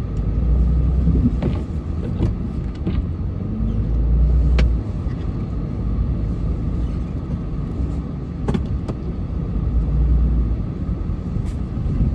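Pickup truck engine running while pushing snow with its plow. Its low rumble swells three times as it takes load, with a few sharp knocks.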